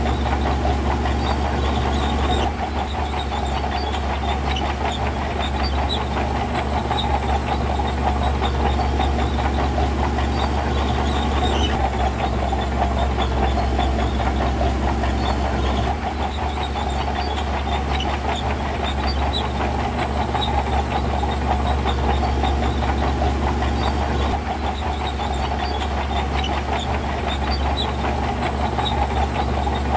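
Heavy diesel earthmoving machinery working steadily, with an engine drone under a continuous busy metallic rattle.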